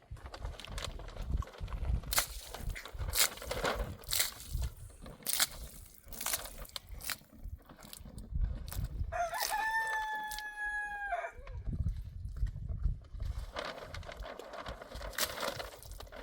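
A rooster crows once, a single long call of about two seconds held on one pitch, about halfway in. Scattered knocks and clatter are heard around it.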